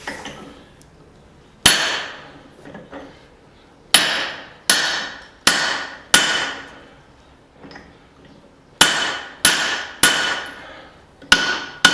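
Hand hammer striking a steel punch driven into a hot hammer head to open its eye: about nine ringing metallic blows in short groups with pauses between.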